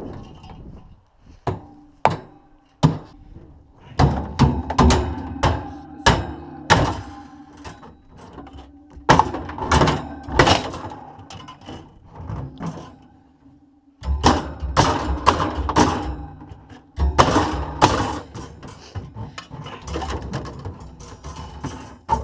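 Irregular thuds and knocks of tools striking and prying at a refrigerator's panels and parts as it is taken apart, loud blows coming in uneven clusters.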